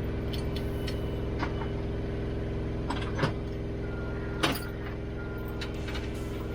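A truck's diesel engine idling steadily, with a couple of sharp clanks, one about three seconds in and another louder one near four and a half seconds.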